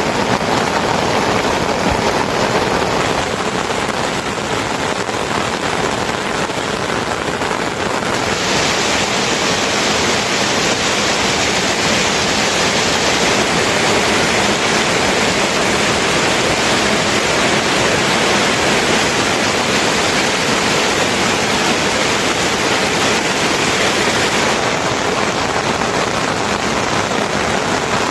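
Steady rush of water, heavy rain or running water, with no other sound over it. It turns brighter and hissier about a third of the way in and eases back near the end.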